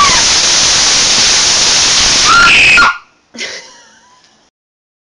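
Loud, steady hiss of a firework spraying sparks, with faint voices over it. The hiss cuts off abruptly about three seconds in, followed by one short, fading sound.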